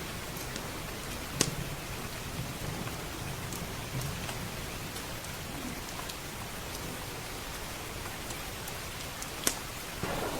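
Steady rain with a low rumble of thunder, and a wood fire crackling in a fireplace, its sharp pops loudest about a second and a half in and again near the end.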